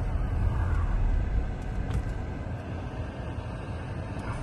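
Car engine and road noise: a low, steady rumble.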